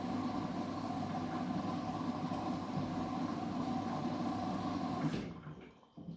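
Washing machine running with a steady motor hum, then cutting off abruptly about five seconds in.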